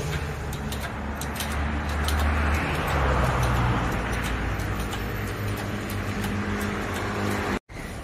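A motor vehicle engine running steadily, swelling a little between about two and four seconds in, with scattered light clicks over it.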